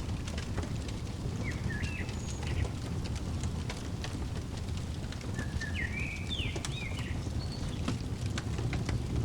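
Fireplace crackling in many short sharp pops over a steady low rumble, with a small bird singing two brief bursts of chirps, about one and a half seconds in and again around five and a half seconds in.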